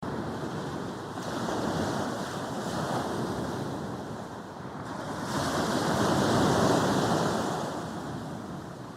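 Sea waves breaking and washing up on a beach, the surf swelling to its loudest break a little past the middle and then easing off, with a smaller break early on.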